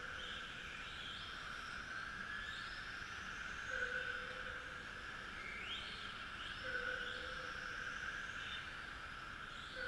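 Several Tamiya TT-01E radio-control trucks racing, their electric motors and drivetrains whining, with whines rising in pitch again and again as the trucks accelerate.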